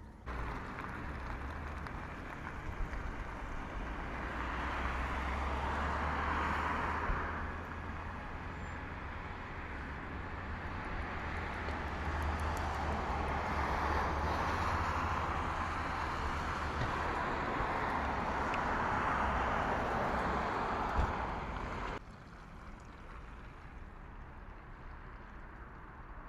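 Sapsan high-speed electric train (Siemens Velaro) departing and running past on the line: a steady rush of wheels on rails with a low rumble, swelling and easing in waves. It cuts off suddenly about 22 seconds in, leaving quieter outdoor background.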